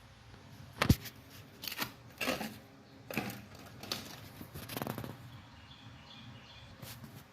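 Handling noises: a sharp knock about a second in, followed by a handful of softer clicks and rustles at irregular intervals.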